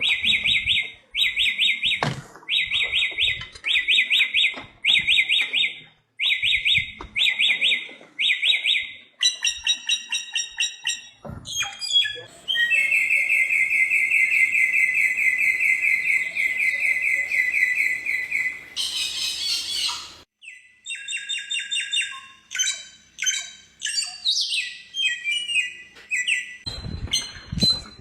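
Bare-throated whistler singing: short phrases of rapid high notes repeated about once a second, then a long fast trill lasting about six seconds, a brief harsh rasp, and a run of varied notes.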